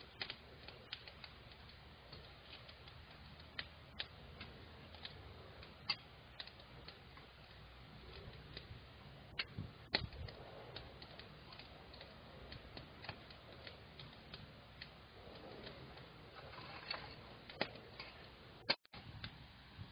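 Wood campfire crackling: irregular sharp pops and snaps over a low hiss.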